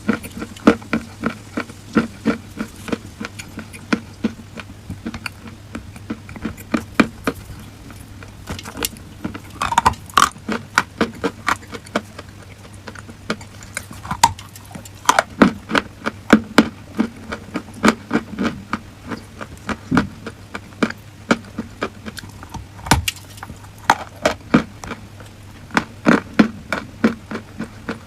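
Close-up crunching of dry chalk, sharp irregular crunches several times a second with short pauses, over a faint steady low hum.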